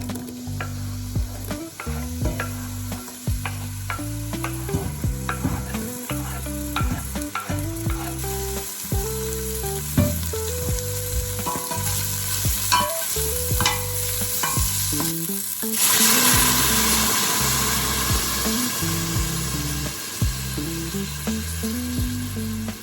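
Food frying in a pan, with clicks and scrapes of a utensil stirring it; a louder, steady sizzle sets in suddenly about two-thirds of the way through.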